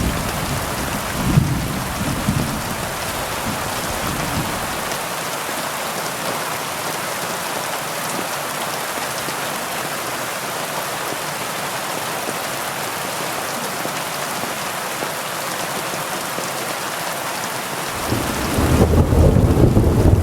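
Steady heavy rain. A low rumble of thunder dies away in the first few seconds, and another roll of thunder builds near the end.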